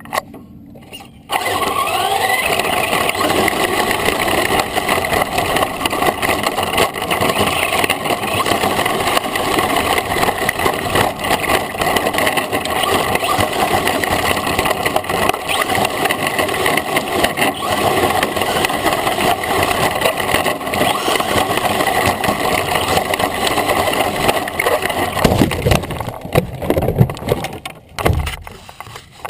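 Electric RC trophy truck with a brushless motor driving hard: a loud, steady, noisy run of motor, drivetrain and tyres that starts abruptly about a second in. Near the end it breaks up into lower, uneven knocks and bumps.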